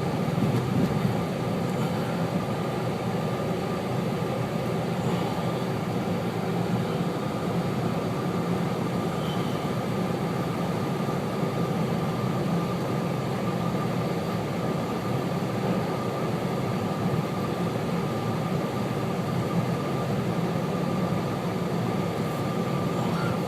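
Steady car cabin noise while driving on snow-covered streets: engine and tyres, heard from inside the car, with a faint steady whine.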